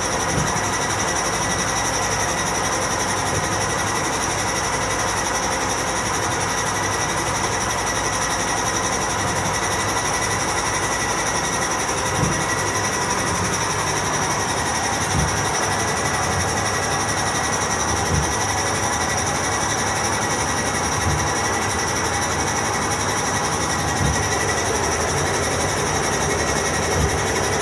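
National NA-F70PX7 washing machine in its spin cycle, running with a loud, steady mechanical noise and a high-pitched whine; from about halfway a knock comes roughly every three seconds. It is an abnormal noise that the owner takes for a loose rubber belt on the motor pulley or loose motor mounting screws.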